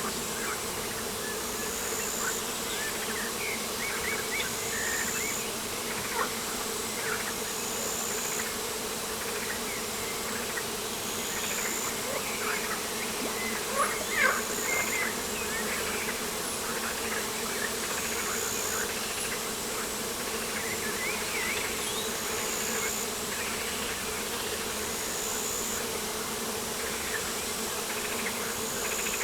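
Steady insect buzzing outdoors, a continuous mid-pitched drone. Over it, a faint high call repeats about every two seconds, and short bird chirps come and go, busiest about halfway through.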